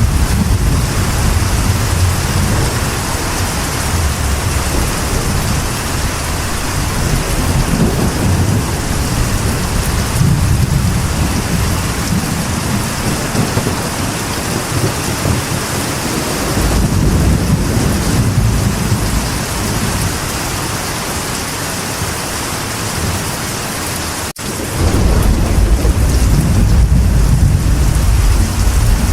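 Steady rain falling on a metal roof, with rolls of thunder rumbling low and swelling several times. The sound cuts out for an instant about three-quarters of the way through, and the thunder is heaviest after it.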